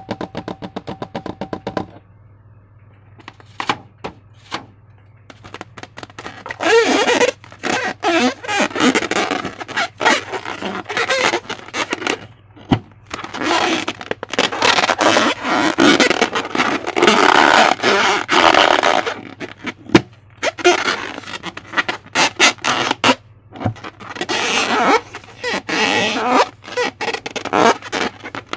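Slime being squished and worked by hand, a wet crackling full of sharp little pops and clicks, coming in long bursts with short pauses; a brief squeaky rubbing tone in the first couple of seconds.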